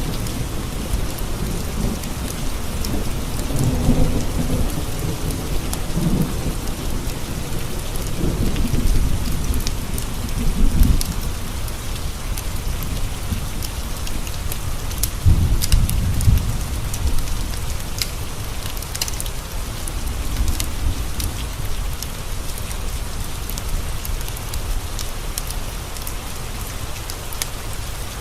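Steady rain on a window with thunder rolling through several low rumbles in the first half, the strongest about fifteen seconds in, then only the rain. A few sharp ticks sound over the rain.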